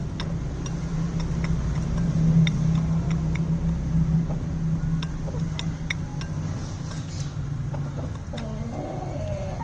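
Steady low motor hum, with scattered short high ticks over it and a brief wavering pitched sound near the end.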